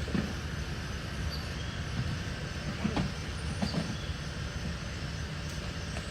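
Junk being handled around a truck: a few scattered knocks and clunks over a steady low rumble.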